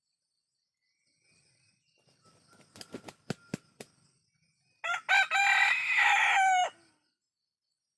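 An Indonesian village rooster (ayam kampung) crowing once, a cock-a-doodle-doo of about two seconds that opens with two short notes and ends on a falling note. About two seconds before it comes a quick run of sharp clicks or taps.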